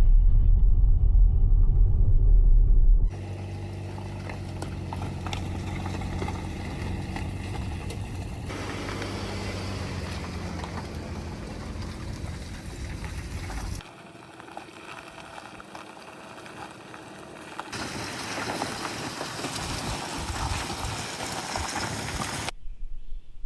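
Heavy rain falling in a series of short cut-together shots. The first few seconds are swamped by a deep wind rumble on the microphone, and the rest is an even rain hiss whose level changes at each cut.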